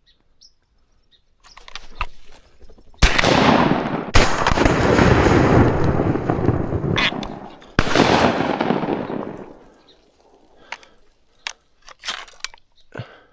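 Three shotgun shots: one about three seconds in, a second a little over a second later, and a third near eight seconds. Each has a sharp crack and a long, loud noisy tail. Faint clicks and small knocks follow near the end.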